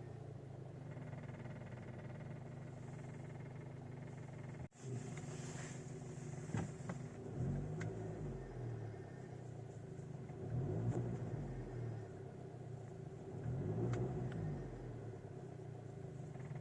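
2006 VW Golf V GTI's 2.0 TFSI turbocharged four-cylinder idling, then blipped three times, the revs rising and falling each time, with sharp knocks and clicks around the blips. The owner traced the idle knock to the fuel line hitting the chassis from engine imbalance, and the rattle on lifting off the pedal went away after a broken vacuum pipe was fixed.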